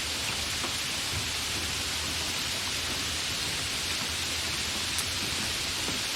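Steady, fairly heavy rain with no thunder: an even hiss, flecked with scattered drop ticks and one sharper drop about five seconds in.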